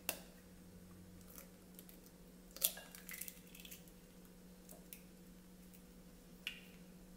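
A raw egg cracked on a knife blade over a glass bowl: one sharp crack about two and a half seconds in, then faint crackles as the shell is pulled apart and the egg drops in. A single tap near the end.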